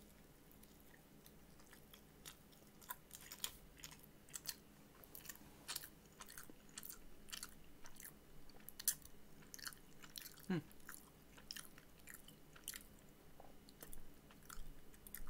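A person chewing a mouthful of fried chicken sandwich close to the microphone: faint, irregular mouth clicks and smacks, a few a second.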